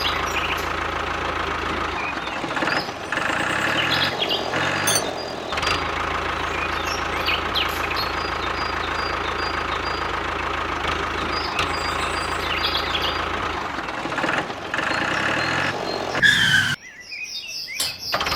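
Small engine running steadily, the engine that drives the mini water pump; it cuts out abruptly near the end.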